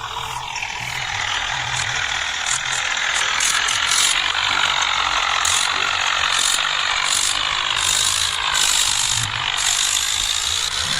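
A small toy motor and gears whirring and rattling steadily, with an uneven clicking edge that comes and goes a few times a second.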